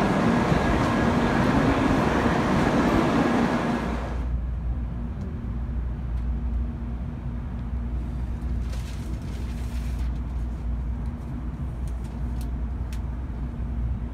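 Loud rushing noise on a Shinkansen platform beside the standing train, with a steady low tone running through it. About four seconds in it drops sharply to the quieter, steady low hum inside the Green Car cabin, with a few faint clicks.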